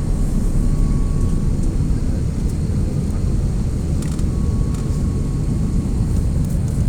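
Airbus A330-300 airliner landing: a steady, loud, low rumble of engine and airflow noise, with a faint thin tone coming and going twice.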